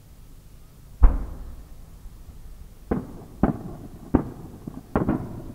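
Large Japanese aerial firework shell (shakudama) going off: one deep boom about a second in, then five sharp cracks in quick succession over the second half, each ringing briefly.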